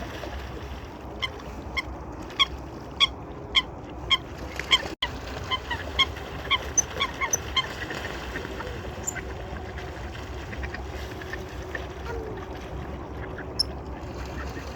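Waterfowl calling: a quick run of short, pitched honking calls, about two a second, that thins out after about seven seconds, over steady low background noise.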